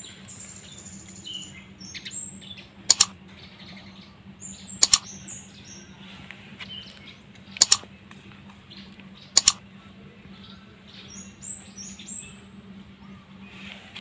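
Small birds chirping in short, high notes, overlaid by four loud, sharp double clicks spaced about two seconds apart: mouse-click sound effects of a like-and-subscribe button animation. A faint steady low hum runs underneath.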